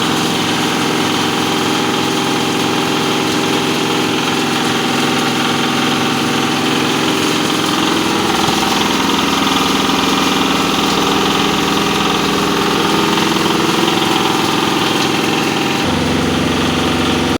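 Posho mill running steadily under power, a dense steady machine drone with many overlapping tones. Its low note shifts and grows stronger near the end.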